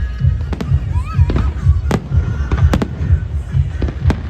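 Fireworks going off: sharp bangs at irregular intervals, a few a second, over music with a heavy low pulse.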